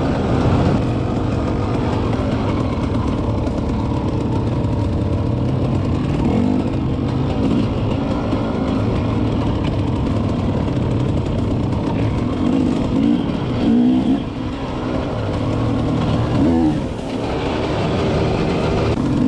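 Engine of an off-road motorbike or quad running steadily under way, with a couple of brief dips in the revs in the second half.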